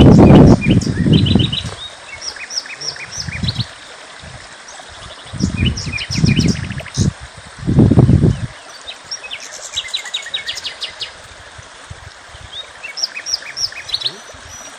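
Small songbirds chirping and singing, with quick runs of short high notes repeating throughout. A few loud low rumbling bursts come near the start and again around six to eight seconds in.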